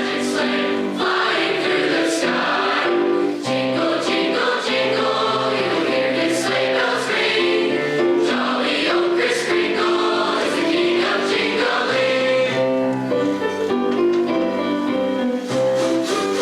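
High school choir singing a Christmas song, several voices sustaining notes together in harmony.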